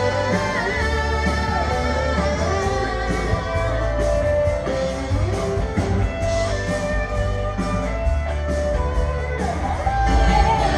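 Band music with guitar leading an instrumental passage over a steady bass line, with no singing.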